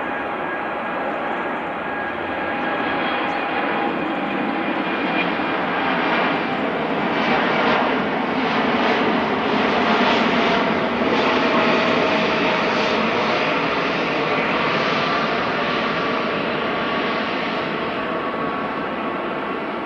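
Boeing 787-8 airliner's jet engines at takeoff power, a steady rushing engine noise with faint steady tones that grows louder to a peak around the middle and then eases slightly.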